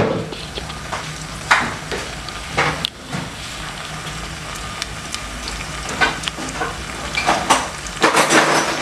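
Cubes of raw liver frying in hot cooking oil in a pot: a steady sizzle with sharp crackles every second or two, busiest near the end.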